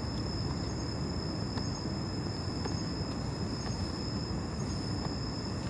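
Steady low outdoor background rumble with a constant thin high tone above it and no distinct events.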